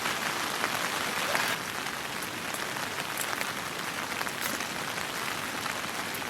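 Heavy rain falling steadily, with a few sharp drips landing close by; it eases slightly about a second and a half in.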